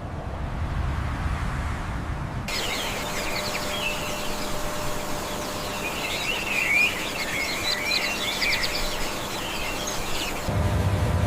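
Birds chirping over a steady hiss, cutting in abruptly about two and a half seconds in and cutting off shortly before the end. A low rumble comes before and after the birdsong.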